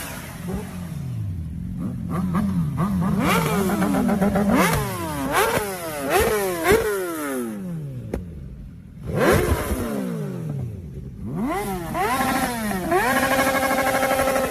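Sport motorcycle engines revving hard, their pitch shooting up and dropping back in quick repeated blips. The sound breaks off abruptly a few times, and near the end one engine holds a steady high rev.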